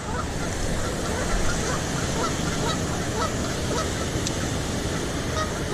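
Water rushing steadily over a small creek spillway, with faint short calls scattered through it.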